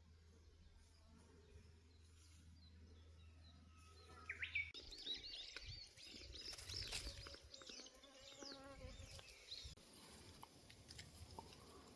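Faint chirping and twittering of small birds, short quick calls that start about five seconds in and carry on through the rest.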